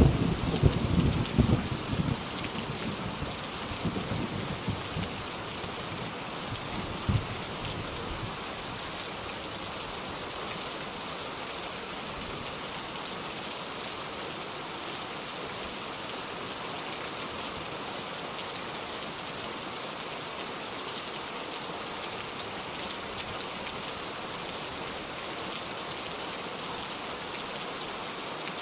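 Steady rain hissing down, with a low rumble of thunder at the start that swells in a few peaks and dies away over the first several seconds.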